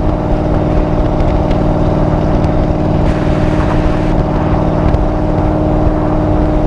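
Chevrolet Camaro SS V8 engine running hard at a steady pitch, a constant loud drone as the car drives on under way.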